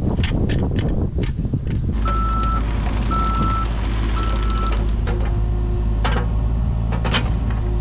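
Small Caterpillar machine's diesel engine running steadily, with its reversing alarm beeping three times as it backs up. Several short sharp sounds stand out over the engine.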